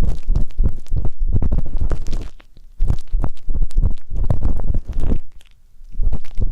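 Ear pick scraping and rubbing close inside a microphone's ear, heard as a muffled low rumble full of crackles, in three stretches broken by two short pauses.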